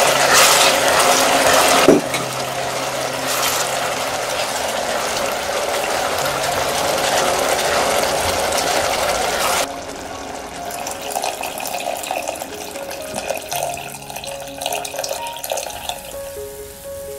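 Chopped tomatoes sizzling in hot oil with minced pork as they are stirred in a pot. The sizzle is loudest in the first two seconds and drops away about ten seconds in, leaving soft background music.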